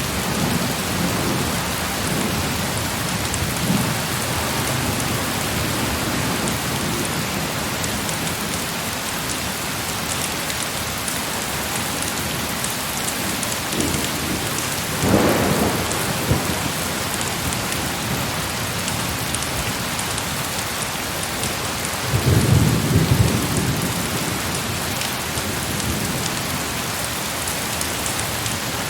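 Heavy rain falling steadily, with distant thunder rumbling low, most strongly a little over 22 seconds in.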